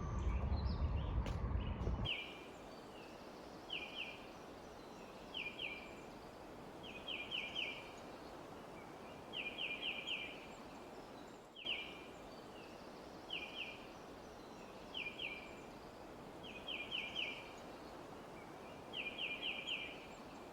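A low rumbling noise that cuts off abruptly about two seconds in. After that, faint outdoor hiss with an animal chirping: short clusters of two to five quick high chirps, repeating about every two seconds.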